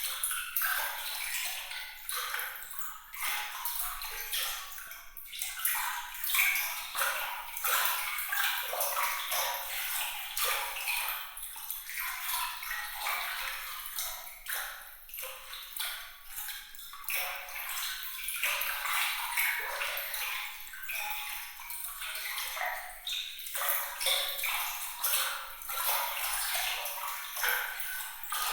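Water trickling and splashing in a bright, light stream of tiny droplet plinks and patters, with no low rumble.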